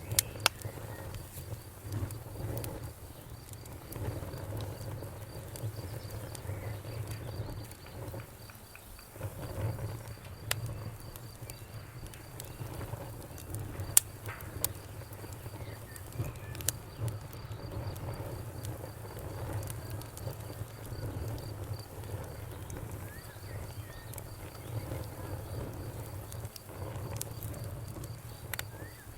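Wood fire burning in a fireplace: irregular crackles and sharp pops over a low, steady rumble of flame, with one loud pop about halfway through.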